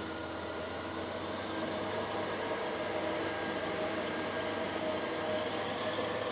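Passenger train of DB Intercity coaches rolling along the platform: a steady rumble of wheels on rail with a few faint steady tones, slowly getting louder.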